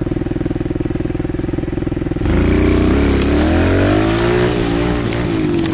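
A motorcycle engine running with a fast, even pulsing beat. About two seconds in it cuts abruptly to a louder motorcycle engine whose pitch climbs as it is revved, then slowly eases back down.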